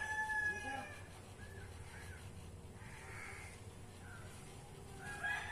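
Birds calling: a long drawn-out call fades out in the first second and another begins near the end, with a few short calls in between.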